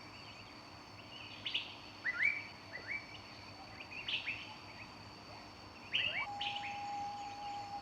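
Forest birds singing: short rising chirps in twos and threes. About six seconds in, one long steady whistled note begins and holds.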